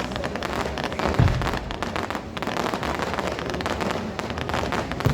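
Fireworks going off: dense, continuous crackling with two heavy low booms, one about a second in and one at the end.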